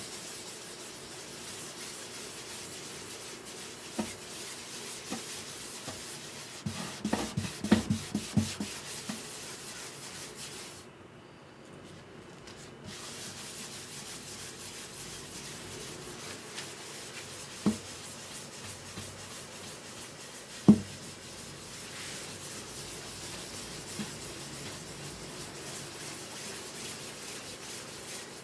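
Steady hand sanding or rubbing on the wood of a guitar under repair, stopping briefly about halfway, with a few knocks of the guitar or tools being handled; the loudest knock comes about two-thirds of the way through.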